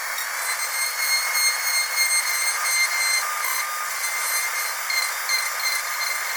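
Dentist's drill whining steadily at a high pitch, several thin shrill tones over a hiss.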